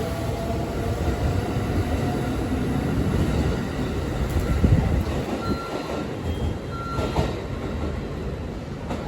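681 series electric train pulling out and rolling past, a steady rumble with a couple of clunks about five and seven seconds in and brief high wheel squeaks.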